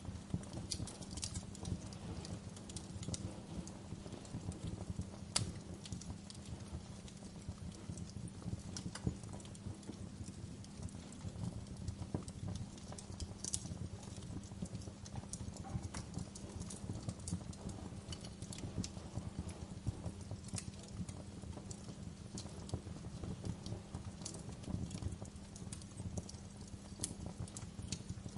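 Wood fire crackling in a fireplace: a steady low rumble of burning with frequent sharp pops and snaps scattered irregularly.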